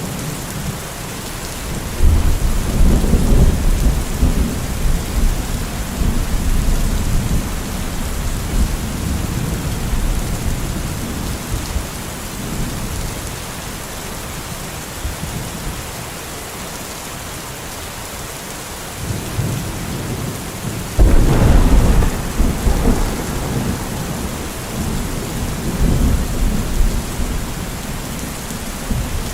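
Steady rain with rolls of thunder: a long low rumble begins about two seconds in, and a louder one breaks about twenty seconds later, followed by a smaller roll near the end.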